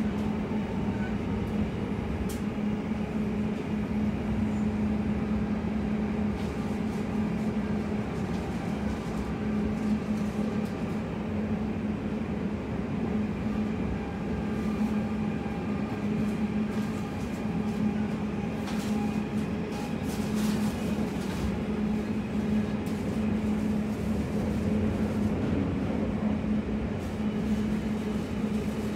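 Class 345 electric train running between stations, heard from inside the passenger cabin: a steady rumble of wheels on rail with a constant low hum and a few light clicks.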